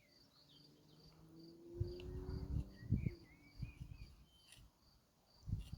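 Crickets chirping steadily, short high chirps repeating about two to three times a second, with a few low knocks and rustles close to the microphone in the middle.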